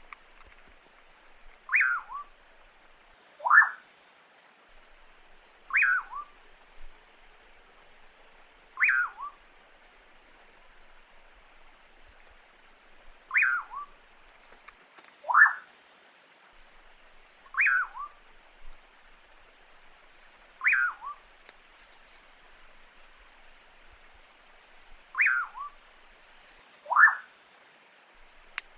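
A bird calling over and over: short whistled notes that each drop sharply in pitch, one every two to four seconds. The notes come in two slightly different forms, and the lower-falling ones are louder.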